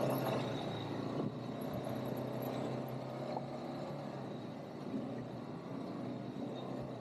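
ATV engine idling steadily, a low even hum.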